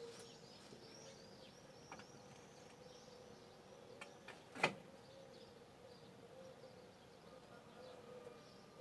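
Small birds chirping in quick repeated high notes, busiest in the first half and fading later, over a faint wavering hum. A single sharp click about halfway through is the loudest sound.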